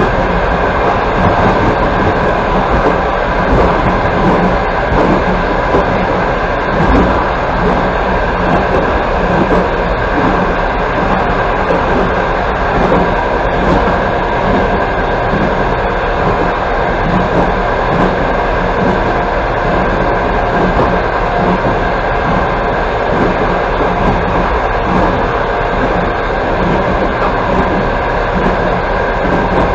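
Passenger train running at speed, heard from aboard a carriage: a steady rumble of wheels on the rails with a light clickety-clack.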